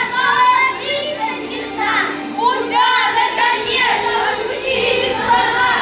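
Children's high voices, speaking or singing, over background music.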